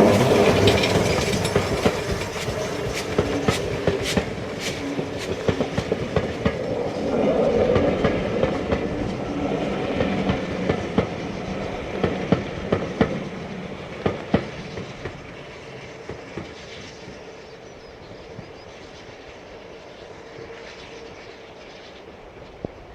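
Steam-hauled train passing, its wheels clicking over the rail joints in quick groups, then fading steadily as it draws away.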